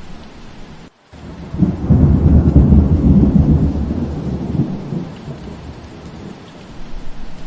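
Steady rain with a rolling rumble of thunder that swells a second and a half in and fades over about three seconds. The rain cuts out for an instant just before the thunder.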